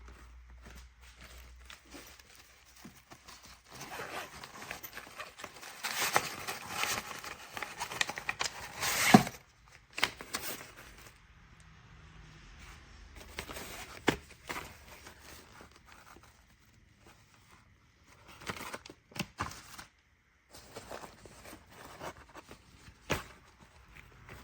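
Handling noise, packaging being crinkled and torn, loudest for several seconds early on and ending in a sharp snap. Scattered knocks and clicks follow.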